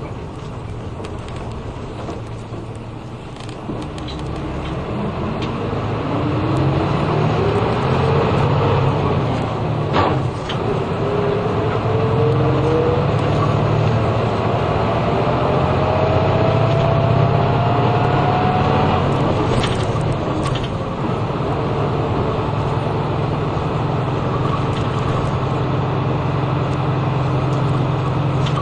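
Route bus heard from inside the cabin while driving: a steady engine and road rumble that grows louder a few seconds in, with a faint whine rising slowly in pitch as the bus gathers speed. A single sharp click about ten seconds in.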